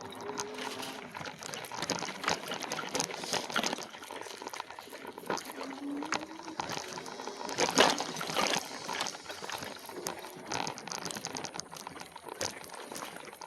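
An e-bike rolling slowly over a rough dirt trail: a steady crackle from the tyres with scattered clicks and knocks of the bike jolting and rattling, the loudest knock about eight seconds in.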